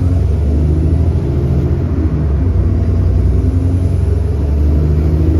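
The 6.7-litre Cummins ISB diesel engine of an Alexander Dennis Enviro400 bus pulling under load, a loud, steady rumble whose note shifts in pitch a couple of times as the ZF six-speed automatic works through the gears. The bus has an exhaust leak.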